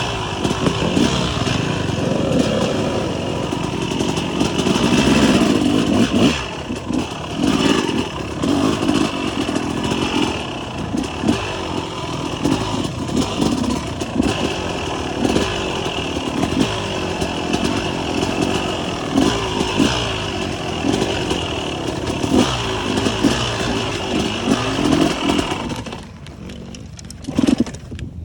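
Motocross dirt bike engine running under a rider, rising and falling with the throttle, with rushing noise over the microphone. The engine drops to a quieter level about two seconds before the end.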